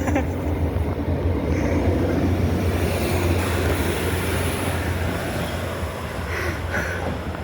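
Diesel passenger train running through the station: a steady low engine rumble with wheel and rail noise that swells about three seconds in and eases toward the end.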